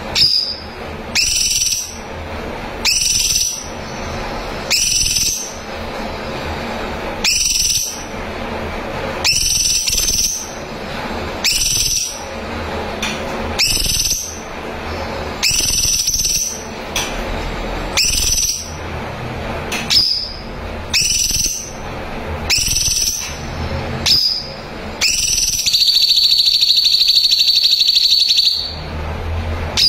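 Cucak cungkok songbird calling loudly in short clear phrases, repeated about every one and a half to two seconds. Near the end it holds one long, high, rapid trill for about three seconds.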